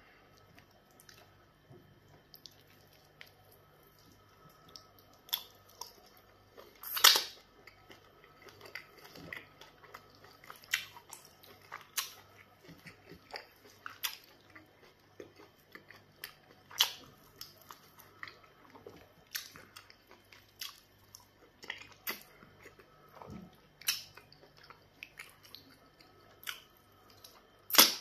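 Close-up mouth sounds of eating pounded yam fufu and black soup by hand: wet chewing, lip smacks and sucks at irregular intervals, the loudest smacks about seven seconds in and at the very end, where the fingers are sucked clean.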